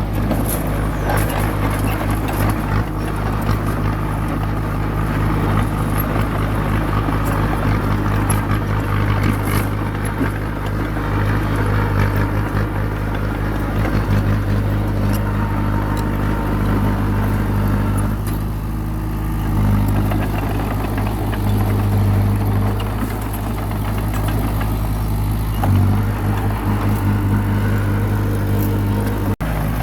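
Bulldozer's diesel engine running steadily under load, with scattered metallic clatter. The engine note changes briefly twice in the second half.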